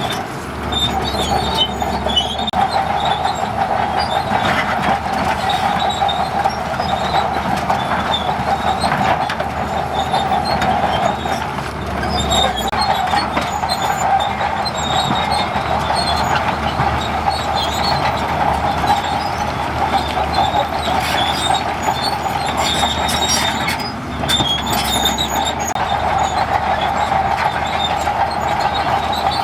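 Crawler bulldozer working, its engine running under a continuous squeal and clank of steel tracks.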